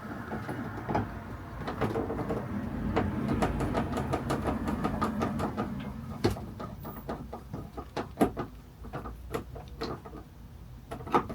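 Light clicks, taps and rustling of hand work on a PVC shower wall and its trim, busiest in the first six seconds, then scattered single clicks.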